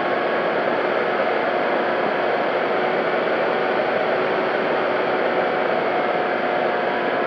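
Steady rush of airflow over the on-board camera of an FMS P-40B Warhawk RC model in flight, with a faint even whine from its electric motor and propeller under the hiss.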